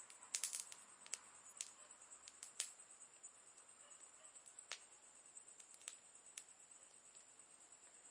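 Campfire crackling softly: irregular sharp pops from the burning wood, with a quick flurry about half a second in and single louder pops scattered through.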